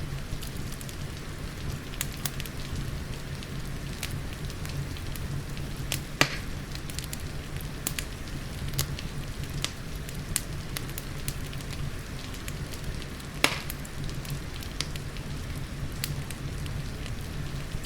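Wood fire crackling in a fireplace, with scattered sharp pops over a steady low rumble, mixed with the even hiss of rain. Two louder pops stand out, about six and thirteen seconds in.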